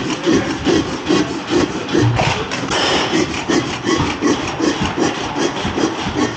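15 hp Galloway hit-and-miss engine running, with a steady rhythm of about four beats a second.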